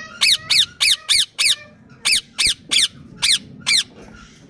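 Indian ringneck parakeet giving a rapid series of short, shrill screeching calls, about ten in quick groups, which stop near the end.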